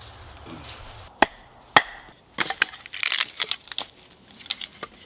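An axe chopping wood: two sharp single blows on a log, then a quick run of lighter strikes.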